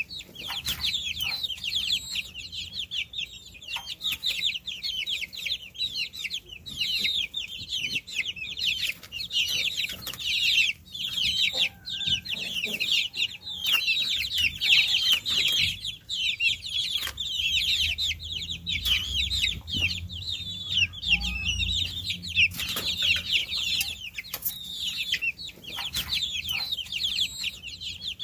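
A group of baby chicks peeping nonstop: many short, high chirps overlapping, each falling in pitch, with scattered faint taps among them.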